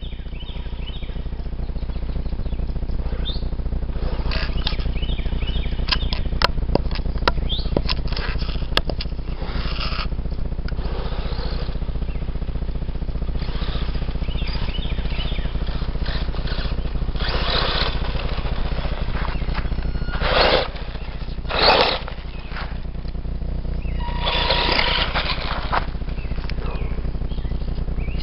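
Wind rumbling on the microphone, with several short rushing bursts, likely a 2WD electric RC buggy tearing across dirt. A few high bird chirps are heard as well.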